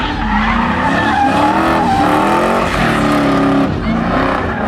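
A car engine revving up and down, with its tyres squealing as it spins in a burnout or donut.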